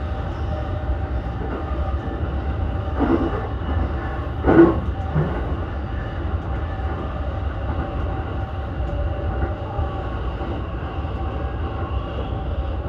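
E233-1000 series electric commuter train running between stations, heard from inside the car: a steady low rumble with several steady tones above it, and a brief thump about four and a half seconds in.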